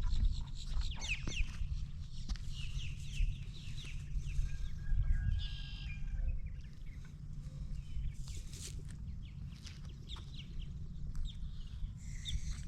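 Birds chirping and calling in short, repeated notes, over a steady low rumble of wind on the microphone.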